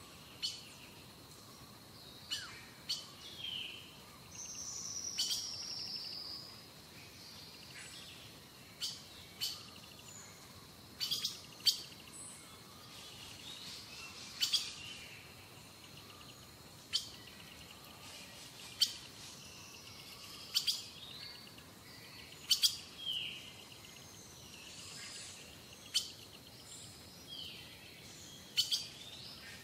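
Birds chirping outdoors: short, sharp high-pitched calls every second or two, with a brief falling trill about five seconds in.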